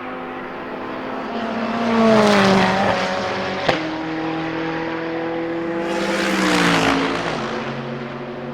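Ferrari 488 GTE race car's twin-turbo V8 going by on track, the engine note swelling twice and dropping in pitch as it passes. A single sharp bang cracks out about a third of the way in, between the two swells.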